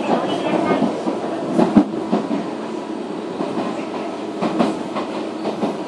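Interior running sound of a Nishitetsu 313-series railcar, heard over its motor bogie: a steady rumble of wheels on rail, with sharp clacks as the wheels cross rail joints, the loudest about two seconds in.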